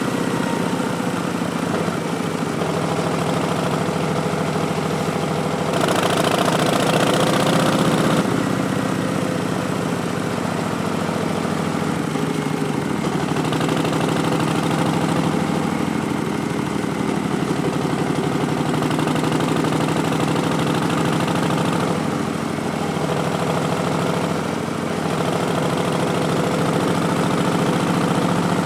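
2019 Harley-Davidson Street Bob's Milwaukee-Eight 107 V-twin running through Vance & Hines Twin Slash slip-on exhausts, with an Arlen Ness Big Sucker intake. It runs steadily, with a louder stretch of about two seconds some six seconds in.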